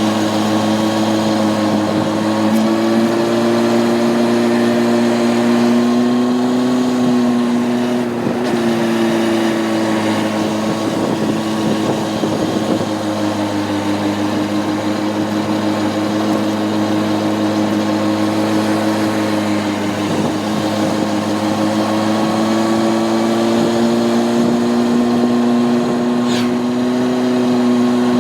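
Honda CB600F Hornet's inline-four engine running steadily while riding, its pitch drifting slowly up and down with the throttle.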